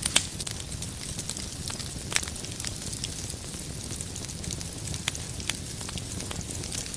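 Wood fire burning in a fireplace: a steady low rumble and hiss with sharp crackles and pops scattered through it, the loudest pop just after the start.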